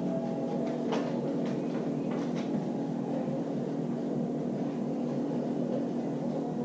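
Steady low mechanical hum, with a few light clicks and taps in the first couple of seconds.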